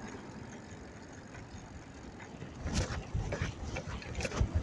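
Wind and road noise on the microphone of a bicycle being ridden through city streets, with a few sharp clicks or knocks, the loudest about three seconds in and again near the end.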